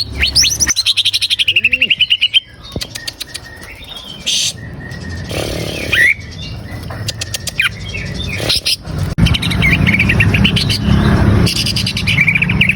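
Greater green leafbird (cucak ijo) singing: fast chirping trills and rapid chattering phrases, loudest in the first couple of seconds and again near the end.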